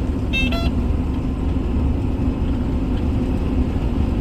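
Combine harvester running steadily with a low engine rumble while harvesting corn. Two short electronic beeps sound about half a second in.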